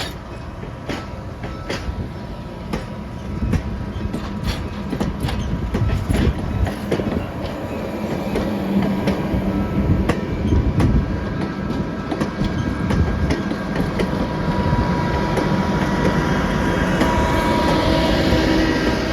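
Train rolling along the track, its wheels clicking irregularly over the rail joints over a steady rumble. A thin wheel squeal comes in during the second half.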